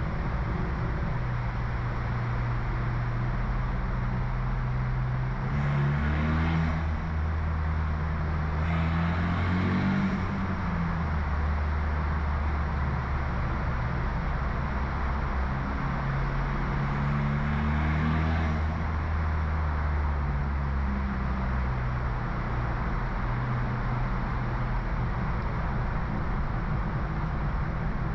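BMW F30 328i's stage 2 tuned 2.0-litre turbocharged four-cylinder with an aftermarket downpipe, driving under way: a steady engine and exhaust drone, rising in pitch and getting louder three times as it accelerates, about six, nine and seventeen seconds in.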